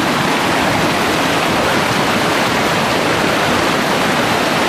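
Rushing stream water: a loud, steady rush with no let-up.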